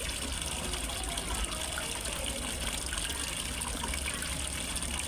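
Small waterfall splashing and trickling steadily into a fish pond.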